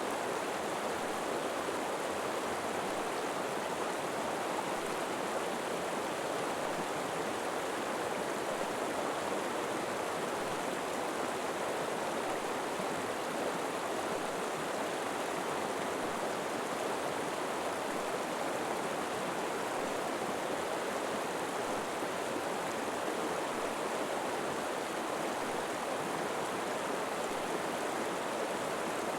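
River water flowing over rocks, a steady rushing and babbling with no pauses or changes.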